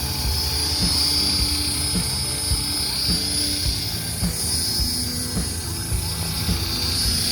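Tarot 450 flybarless electric RC helicopter running, its brushless motor and gears giving a steady high-pitched whine over the rotor noise. The whine fades slightly midway and comes back near the end.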